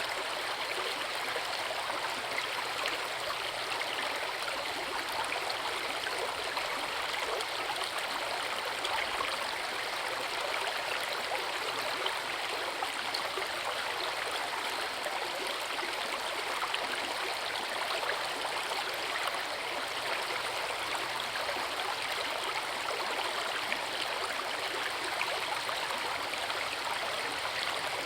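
Forest river running over rocks: a steady, even rush of water.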